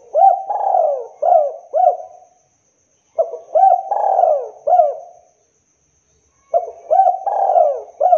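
Spotted dove (tekukur) cooing in three phrases about three seconds apart. Each phrase is a run of several short rising-and-falling coos, and the last runs on past the end.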